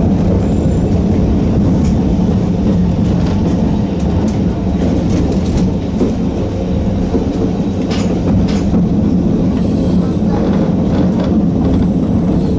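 Narrow-gauge Sangi Railway Hokusei Line electric train running at steady speed: a constant rumble with the hum of its nose-suspended traction motors and gears, and a few clicks from the wheels.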